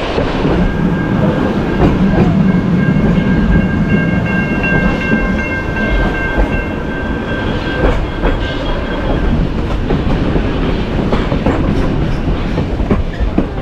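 Heritage railway carriage rolling along the track, heard from an open window: a steady rumble and rattle with the clickety-clack of wheels over rail joints. A high, steady squeal, several pitches together, is held for several seconds in the middle.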